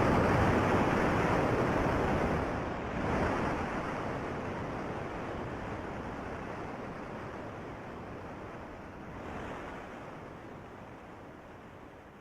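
Steady rushing water noise with no distinct tones, swelling briefly twice and fading out gradually toward silence.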